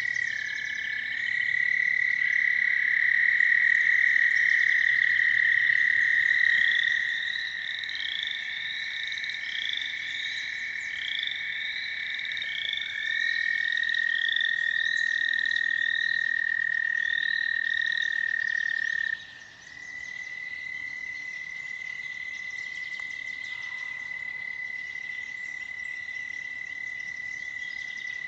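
American toads trilling: long, steady, high trills of several seconds each, overlapping and taking over from one another, loudest in the first seven seconds. A run of short, quick, higher chirps repeats over them through the middle.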